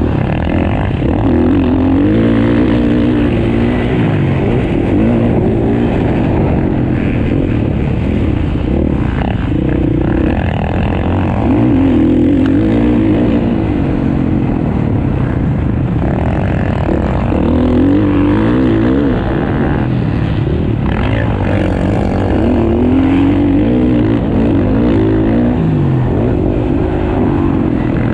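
Motocross bikes racing, their engines revving up and down over and over as they accelerate and shift through the gears.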